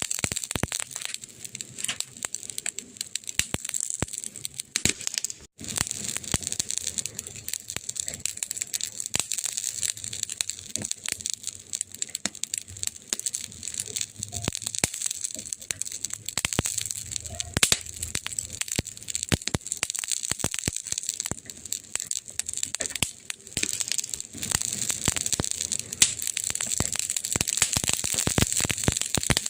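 Burning firewood crackling steadily, with dense irregular snaps over a soft hiss and a few sharper pops.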